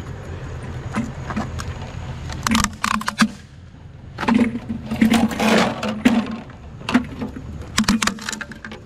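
Irregular clattering, knocking and scraping as discarded fans are handled and moved about, in uneven clusters with a short lull partway through. A low steady rumble runs underneath.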